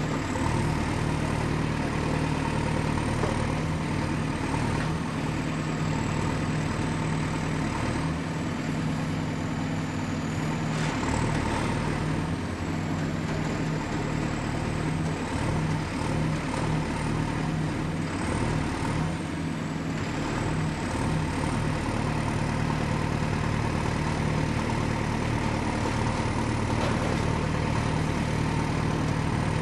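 Excavator's diesel engine running steadily at work, with a thin high whine that dips and rises in pitch and a few faint knocks.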